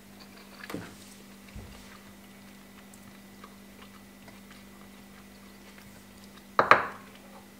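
A person quietly chewing a mouthful of baked spaghetti, with small soft mouth clicks. A short vocal sound comes near the end.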